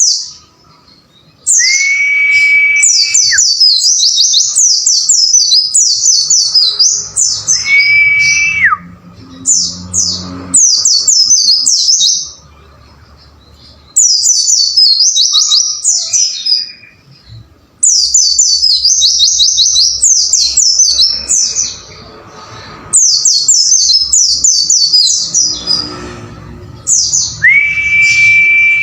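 White-eye (pleci) song: bursts of rapid, high twittering phrases a few seconds long with short breaks between them. Three times a long steady whistle is held, then drops off at its end.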